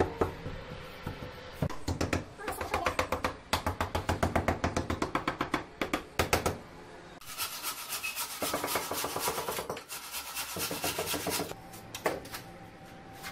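Rapid back-and-forth scraping or rasping strokes of a hand tool worked over a hard surface, in runs of a few seconds each, with a brighter, hissier run in the second half.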